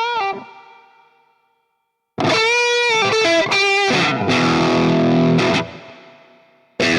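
Electric guitar played through a DemonFX distortion pedal. A held note is cut short near the start and fades to silence, then a phrase of distorted single notes and a ringing chord comes in just after two seconds and decays near six seconds. A new phrase starts right at the end.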